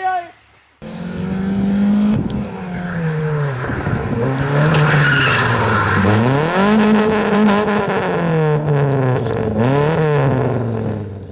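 Rally car driven hard on a test stage: its engine starts sounding suddenly about a second in, revving up and dropping back several times as the driver accelerates and lifts, with tyres skidding and squealing through the middle.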